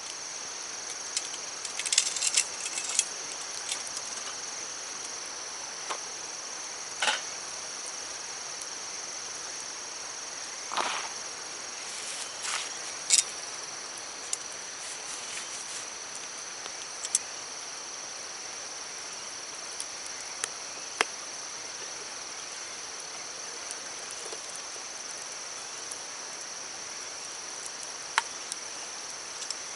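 Steady high-pitched insect chorus over a soft hiss of flowing stream water, with scattered sharp clicks and cracks. The loudest of these come about two, seven, eleven and thirteen seconds in.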